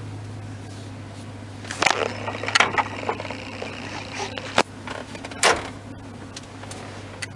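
A handful of sharp clicks and knocks from fittings inside the truck's cab being handled, over a steady low hum. The knocks start about two seconds in and come irregularly, about a second apart.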